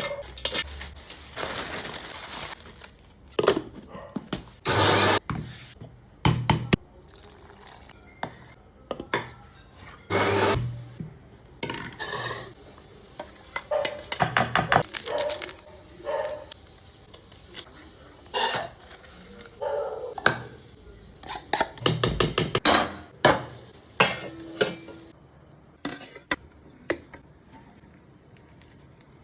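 Kitchen utensils clinking and scraping against a bowl in short separate bursts, some of them rapid runs of clicks, as ingredients are handled and mixed.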